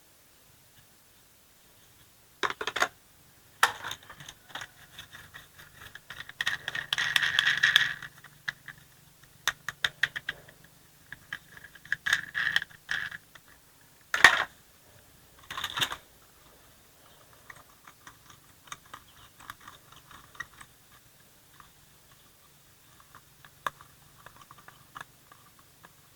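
Plastic toy truck being handled: a string of clicks and short rattles, with a longer rattling burst about seven seconds in and sharp clacks a little after the middle.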